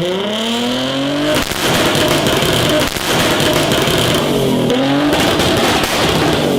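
Big-turbo Nissan Skyline engine revving hard. The revs climb steeply for about a second and a half, then hold high with a rough, noisy sound, dipping briefly and climbing again near the end.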